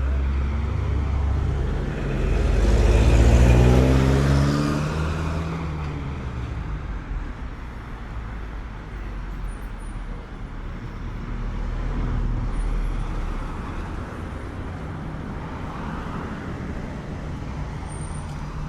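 Street traffic: a motor vehicle's engine accelerating past close by, its pitch rising and loudest about three to four seconds in, then steady road traffic with further cars passing.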